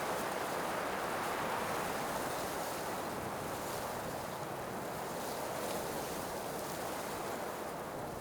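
Blizzard wind blowing steadily as an even noise, easing off slightly over the seconds.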